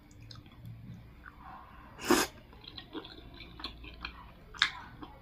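A person chewing lamb offal soup with flatbread close to the microphone, with small wet mouth clicks. A louder short mouth noise comes about two seconds in, and a sharp click near the end.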